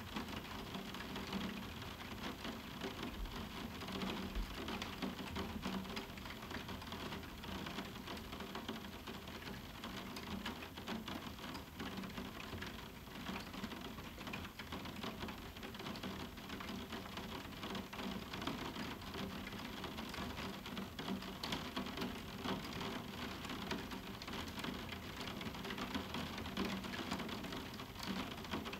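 Moderate summer rain falling on a roof window: a steady, dense patter of many small drops striking the glass, with no thunder.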